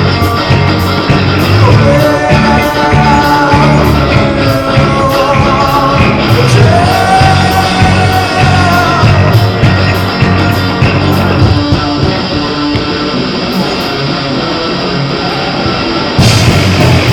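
Live rock band playing loud, with a steady drum beat, bass and guitar. A melodic line rises and falls over it for several seconds, and the full band comes back in harder about a second before the end.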